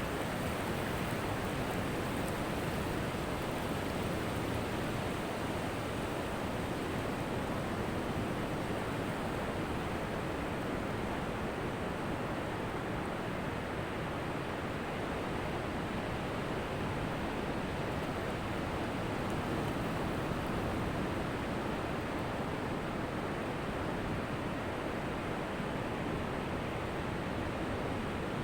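Ocean surf on a beach: a steady, even rush of breaking waves, with no single crash standing out.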